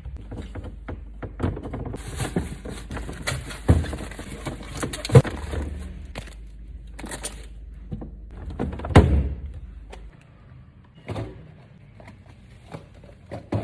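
Items being stocked into a refrigerator: a string of knocks and clunks as bottles and packages are set down and handled. A rustling hiss, like packaging being handled, runs from about two to six seconds in, and a low hum stops about ten seconds in.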